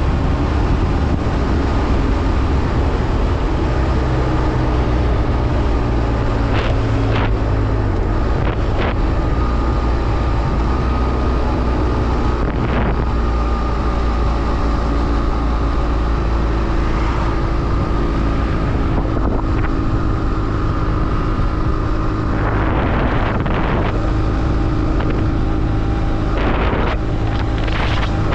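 BMW F800R's 798 cc parallel-twin engine running under way on the road, its pitch stepping up and down a few times as the speed changes. Steady wind noise on the microphone runs under it, with several short rushes of noise.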